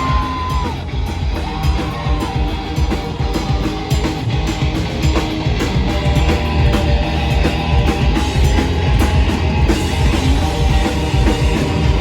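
Live rock band playing loud and full, with drum kit and electric guitars.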